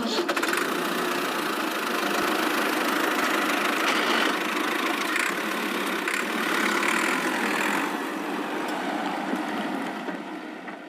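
A small machine running steadily with an engine-like drone.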